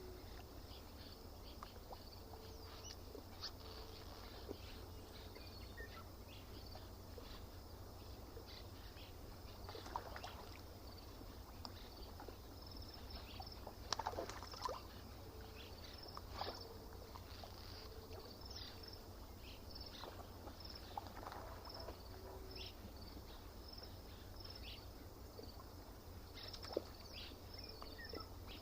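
Quiet lakeside ambience: small irregular splashes and lapping of water at the shore, over a steady low rumble. Short high chirps repeat throughout.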